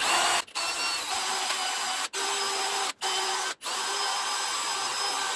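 Handheld power tool running in steady bursts, with four brief cut-outs, cleaning up the dowel pins on the back of an engine block where the bell housing mounts.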